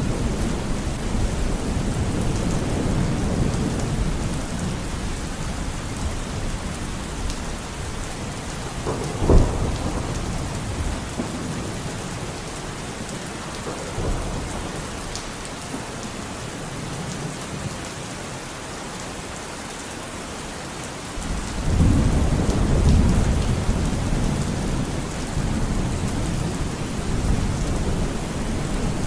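Steady rain with a thunderstorm. A low rumble of thunder fades over the first few seconds, a sharp crack comes about nine seconds in (the loudest moment) and a fainter one a few seconds later, then a new rumble starts abruptly about two-thirds of the way through and rolls on.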